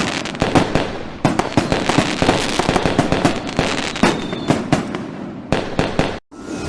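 Fireworks going off in quick succession, with many sharp bangs and crackles, cutting off suddenly about six seconds in.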